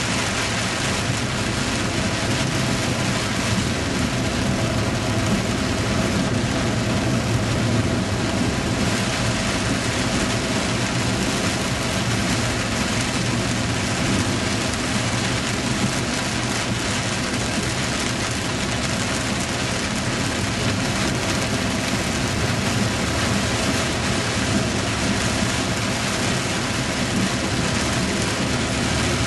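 Heavy rain pouring down in strong, gusty wind during a thunderstorm: a steady, unbroken noise with a low rumble from the wind.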